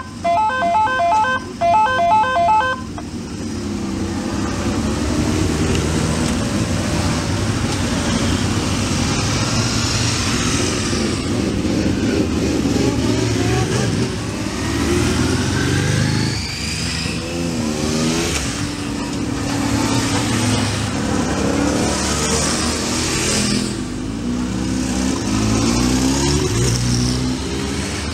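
A group of sport motorcycle engines idling together on a start grid, with throttles blipped so that the revs repeatedly rise and fall. A rapid electronic beeping pattern sounds over them for the first few seconds.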